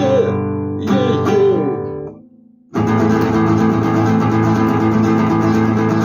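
Guitar music with no singing: a couple of held, bending notes, a brief pause about two and a half seconds in, then steady strumming.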